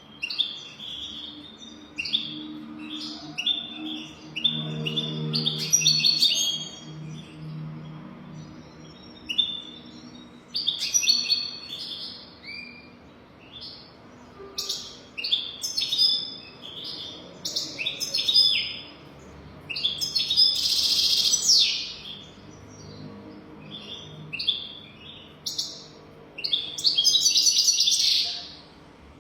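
European goldfinch singing: repeated bursts of fast, high twittering and trills, with longer, louder phrases about two-thirds of the way in and near the end.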